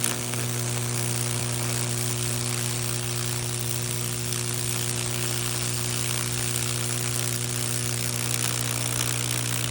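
A high-voltage Lichtenberg wood-burning rig running: a steady low electrical hum from the transformer, with a constant hiss and crackle from the current burning a fractal pattern into a wooden board.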